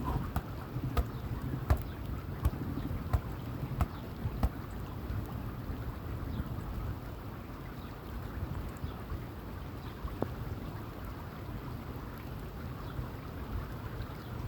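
Wind buffeting the microphone over open water, with a run of sharp knocks about every three-quarters of a second in the first five seconds and one more a little after ten seconds.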